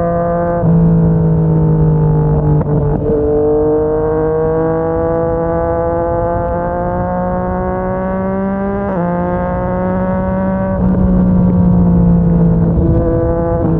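Yamaha MT-09's inline three-cylinder engine through a Yoshimura R55 slip-on exhaust under way: the revs climb steadily in each gear, broken by several quick gear changes where the engine note jumps in pitch.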